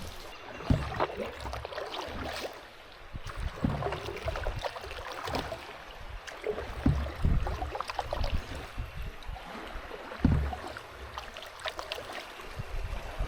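A canoe moving down a flowing river: water splashing and gurgling around the hull and paddle, with scattered small splashes and now and then a low thump.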